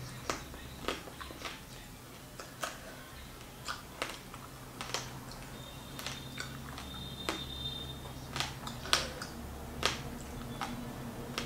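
Close-miked eating sounds of fried whole fish: chewing and lip smacking, heard as irregular sharp, wet mouth clicks, each a half second to a second apart.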